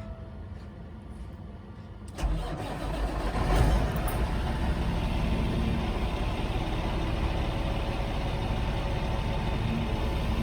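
Cummins ISX diesel in a Peterbilt truck cranking and firing about two seconds in, revving briefly, then settling into a steady idle. The engine has just been repaired after oil starvation, with new main bearings, oil pump and fuel pump.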